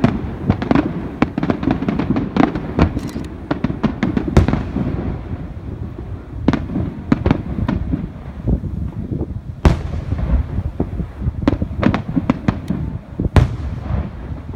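Aerial fireworks bursting in rapid succession: a dense run of sharp cracks and bangs over a continuous low rumble, thinning out around the middle. A few single loud bangs stand out near the middle and the end.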